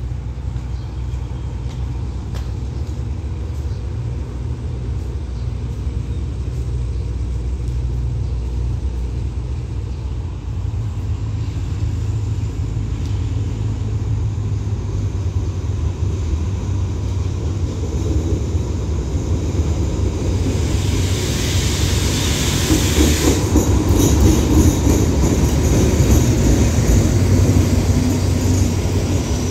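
Diesel-hauled passenger train of the State Railway of Thailand approaching and running in alongside the platform, its low engine rumble growing steadily louder. About twenty seconds in comes a high hiss lasting some three seconds as it brakes, then the noise of the coaches' wheels rolling past.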